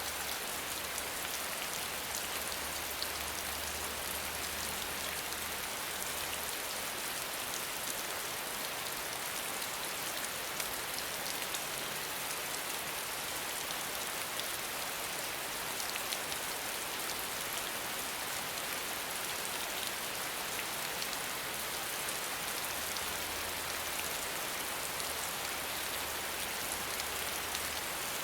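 Steady rain falling: an even, dense hiss with scattered individual drops ticking through it.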